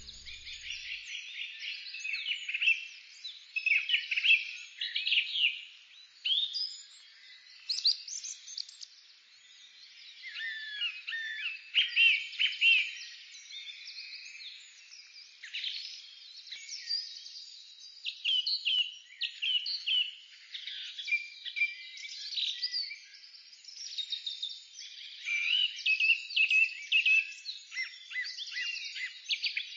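Several songbirds singing at once: overlapping chirps, whistled phrases and quick trills, coming in bursts with brief lulls.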